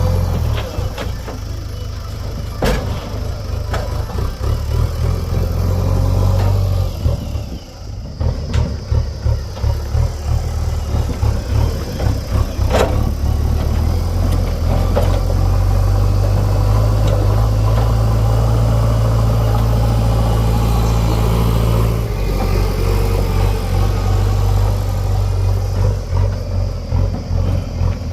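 Heavy diesel engine of a JCB 3DX backhoe loader running and working under changing load, with a few sharp knocks about 3 and 13 seconds in.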